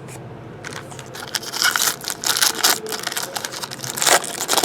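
Baseball cards and packs being handled: a busy run of rustles, snaps and clicks, loudest about four seconds in.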